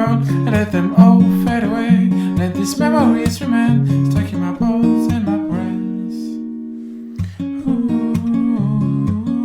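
Acoustic guitar strumming chords in an instrumental passage. About five and a half seconds in, a chord is left ringing and fades for over a second before the strumming starts again.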